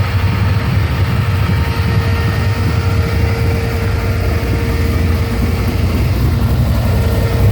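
GM LS V8 engine in a 1950 Chevrolet truck, idling with a steady low rumble.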